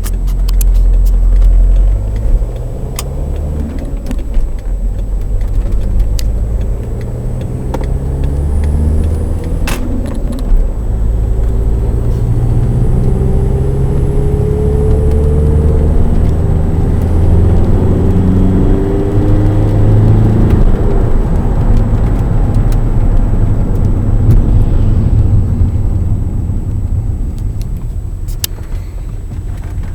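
Volkswagen Passat B6 2.0 TDI diesel engine pulling under acceleration, its pitch rising, with a faint high whistle that rises and falls with the revs. The owner puts the whistle down to the exhaust gas recirculation cooler.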